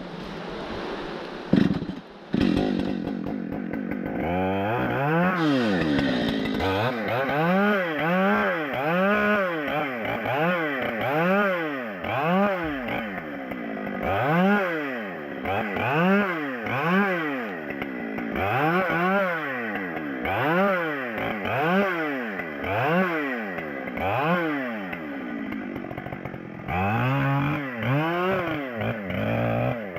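Chainsaw engine revving up and falling back over and over, about once a second, with a steadier stretch near the end.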